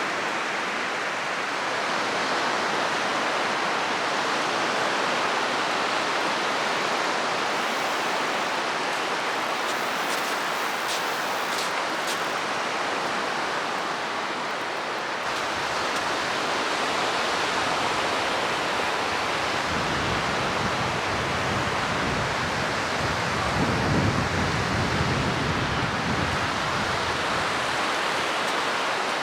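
Steady rushing noise of strong wind and sea surf on a rock ledge. From about halfway through, low wind rumble buffets the microphone, strongest about two-thirds of the way in.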